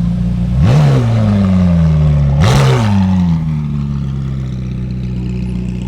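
Car engine revved twice in quick blips, each rising sharply in pitch and then falling slowly back toward idle.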